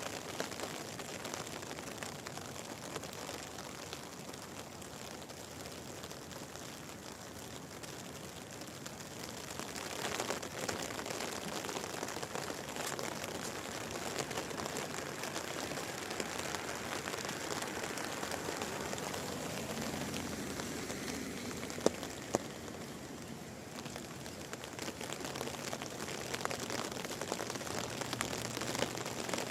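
Steady rain falling and pattering on surfaces, with two sharp ticks about 22 seconds in.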